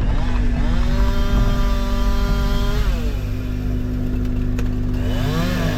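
Engines running steadily. Over them, an engine revs up about half a second in, holds high for about two seconds and drops back, then revs up and down twice near the end.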